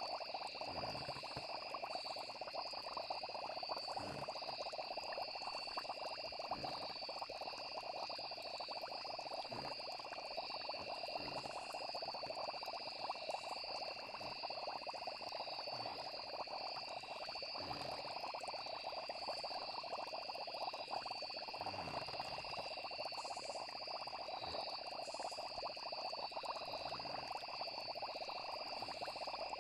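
Night nature ambience of a frog chorus with crickets: steady high insect trills over a dense, crackly chorus of calls, with short low sounds falling in pitch every couple of seconds.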